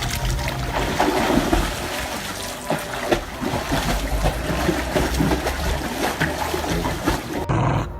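Water splashing and sloshing in irregular bursts, cutting off suddenly shortly before the end.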